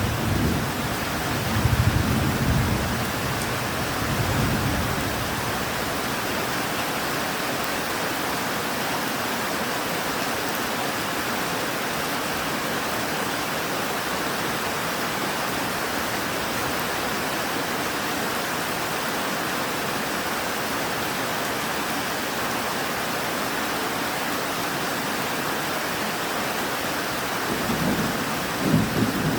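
Steady rain with rolling thunder: low rumbles in the first few seconds that die away, then rain alone, and thunder rumbling again near the end.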